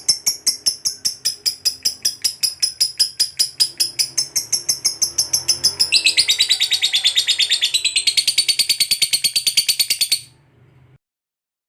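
Lovebird giving a long 'ngekek' trill: a fast run of shrill chattering notes at about ten a second. It grows louder and fuller about six seconds in and cuts off near the end.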